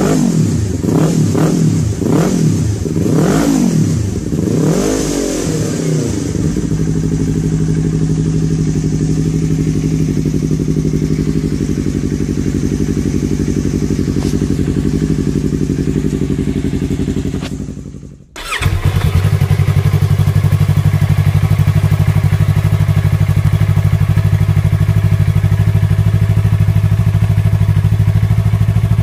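Yamaha R3 motorcycle's parallel-twin engine and exhaust revved in about five quick blips, then settling to a steady idle. About 18 seconds in the sound cuts out briefly, and a louder, deeper idle takes over.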